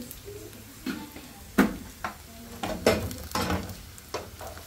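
Onions and food frying in hot oil in metal pans, a steady sizzle, with several sharp clinks and knocks of pots and utensils. The loudest knock comes about one and a half seconds in.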